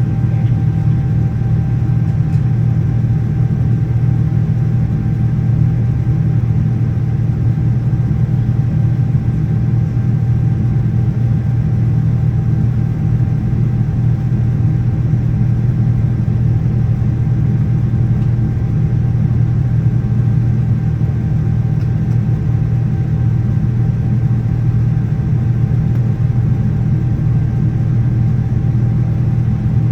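Cabin noise inside a Boeing 787-9 in flight: the steady low drone of its Rolls-Royce Trent 1000 engines and the airflow, with a faint steady whine above it.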